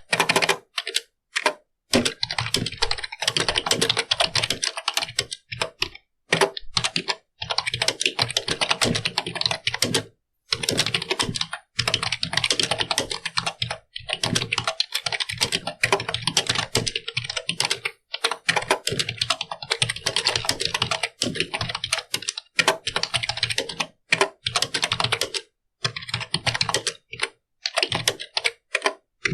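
Fast typing on a computer keyboard: dense runs of key clicks, broken every few seconds by short pauses.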